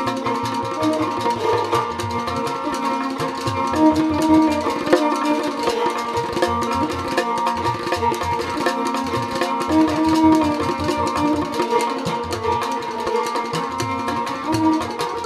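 Rajasthani folk instrumental music: a kamaicha melody over the twanging drone of a morchang jaw harp, with a steady percussion rhythm.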